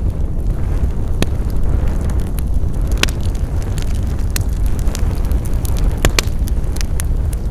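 Wood fire crackling in a fireplace: a steady low rumble of burning, with sharp pops and snaps every second or so and a quick pair about six seconds in.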